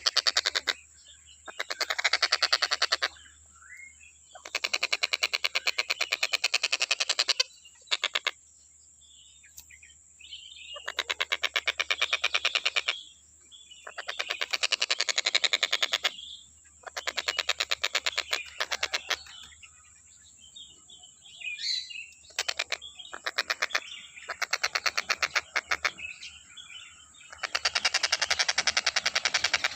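Tengkek buto kingfisher calling in long rattling bursts of rapid, harsh repeated notes, each burst lasting two to three seconds, with short pauses between bursts.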